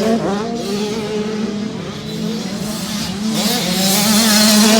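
Two-stroke motocross bikes revving hard, their engine pitch climbing and dropping again and again as the riders work the throttle, over a steady lower engine note. The revving grows louder in the second half.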